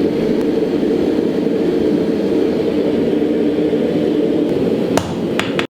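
A forge running with a steady low rushing noise. There is a sharp click about five seconds in, and the sound cuts off abruptly just afterwards.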